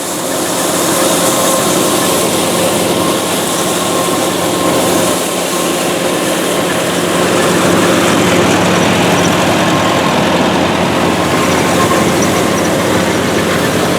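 A vehicle engine running steadily, a constant rushing noise with a faint steady hum underneath.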